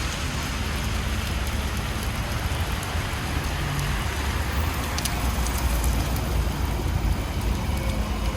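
Steady rain falling on a city street, with a low traffic rumble underneath.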